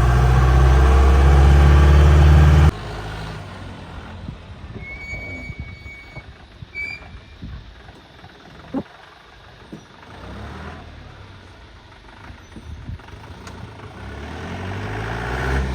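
Mahindra 4x4 jeep engine running loud and steady, then cutting off abruptly about three seconds in. A quieter stretch follows with a few short knocks, and the engine's sound builds up again near the end.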